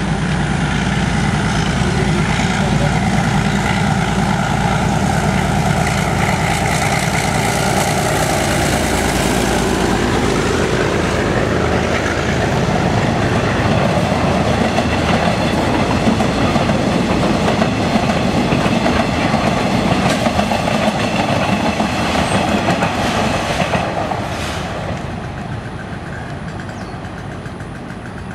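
Metre-gauge passenger train passing close by: the YDM4 diesel locomotive's engine is loudest for roughly the first ten seconds, then the coaches roll past with their wheels clattering over the rail joints. The sound fades after about 24 seconds as the train moves away.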